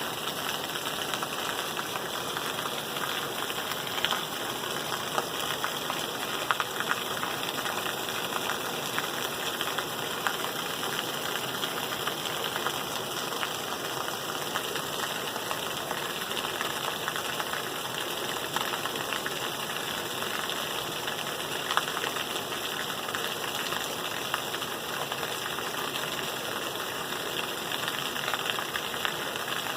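Steady rain falling, a dense even patter of drops with small scattered taps.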